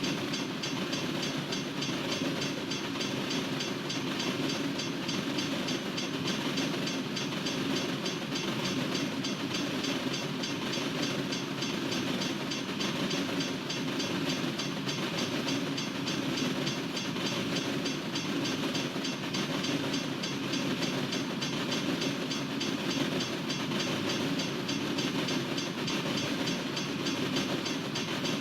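Norfolk Southern freight train's cars rolling steadily past on the rails, an even, continuous noise of steel wheels on track.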